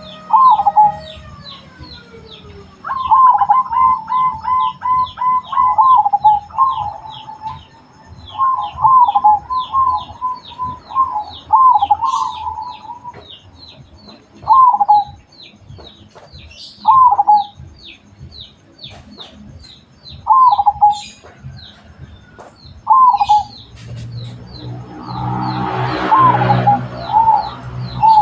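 Zebra doves (perkutut) cooing: a rapid run of coo notes a few seconds in, then single coo phrases every couple of seconds, over a steady series of short high chirps from another bird. Near the end a swell of rumbling noise rises and fades under the cooing.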